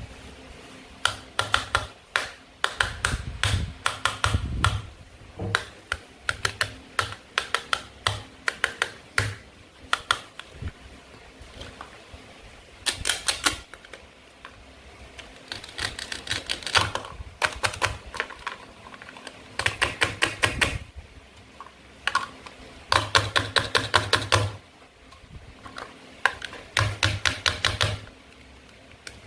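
Toy play-food cutting sounds: bursts of rapid, sharp clicks and taps, each lasting a second or two, with short pauses in between.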